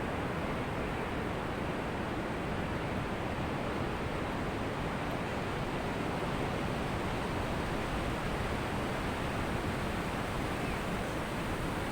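Ocean surf washing on a beach: a steady, even rush of water noise with no separate wave crashes standing out.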